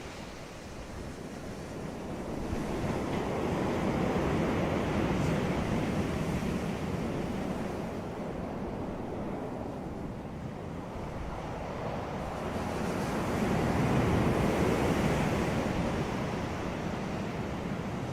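Ocean waves breaking on a beach, a steady wash of surf that swells twice, about ten seconds apart, as waves come in and fall back.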